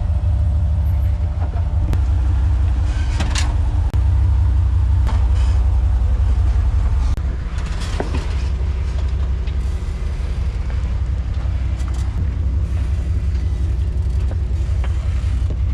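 Low steady rumble of an off-road Jeep crawling down a steep rock ledge, with a few sharp knocks from the rocks or the rig, the clearest about three and eight seconds in.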